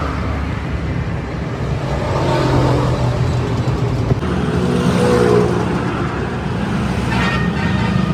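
A motor vehicle engine running steadily close by, with road traffic noise around it.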